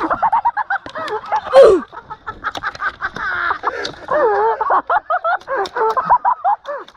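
Rapid chicken-like clucking: a run of short, wavy calls. A short, loud burst of noise comes about one and a half seconds in.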